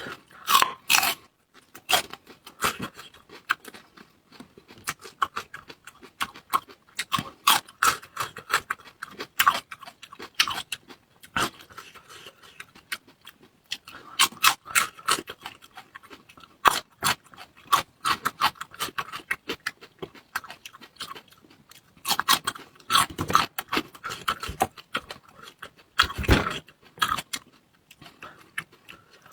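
Close-miked mukbang eating: chewing with wet mouth clicks and crunches in quick, irregular bursts, with a louder burst near the end.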